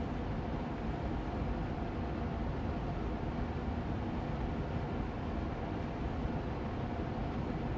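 Austin Air Allergy Machine air purifier fan running on medium speed: a steady, even rush of air with a low hum and a faint steady tone.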